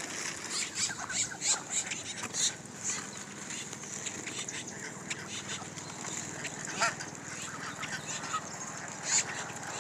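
A large flock of geese crowding in to feed, with many short, overlapping calls and clicks, thickest in the first few seconds and with a couple of louder calls near the end.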